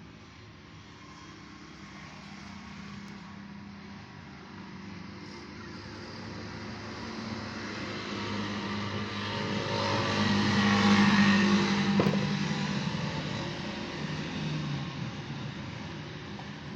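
A road vehicle passing by, its noise building to a peak about eleven seconds in and then fading, over a steady low hum.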